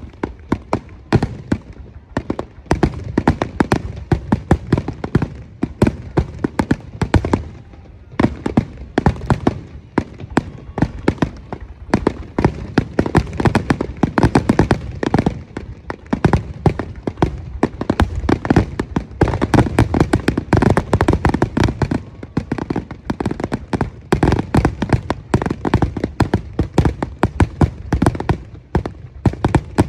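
Aerial fireworks going off in a rapid, almost continuous barrage of booms and crackling bursts, easing briefly a few times.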